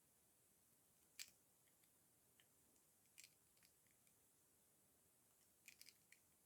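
Dry bar soap crunching and crackling as it is crushed: a sharp crack about a second in, a double crack around three seconds, and a quick cluster of crackles near the end, with faint small ticks in between.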